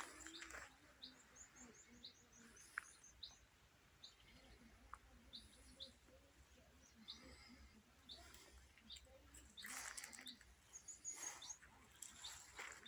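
Small birds chirping faintly, with short high chirps scattered throughout and a quick run of very high notes about a second in and again near the end. Brief rustling noise comes in around two-thirds of the way through.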